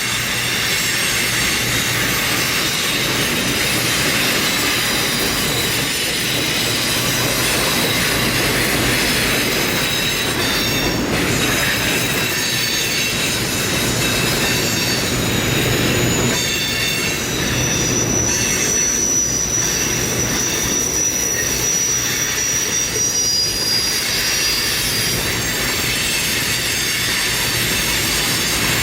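A train rolling by with its steel wheels squealing on the rail, the running noise steady throughout. A thin, high squeal swells and holds for several seconds in the latter half.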